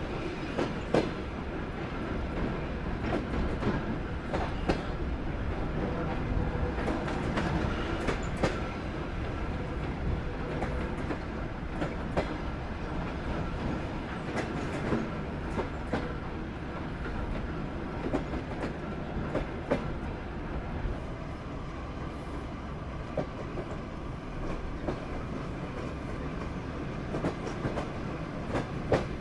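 Passenger train running on the rails, heard from aboard a Soviet-built sleeper carriage: a steady rumble with irregular wheel clacks and knocks over rail joints.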